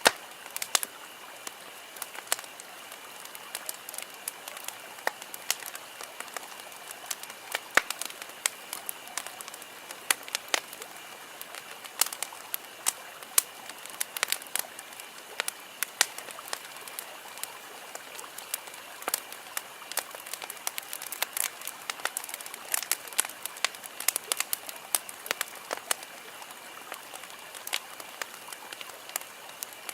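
Wood campfire crackling, with many irregular sharp pops and snaps from the burning logs over a steady low hiss.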